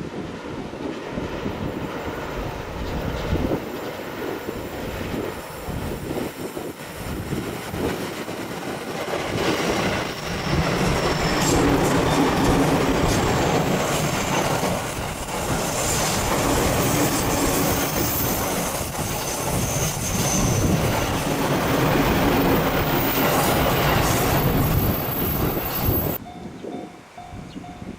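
A train passing close by on the line, its wheels running on the rails, growing louder about ten seconds in and cutting off abruptly near the end.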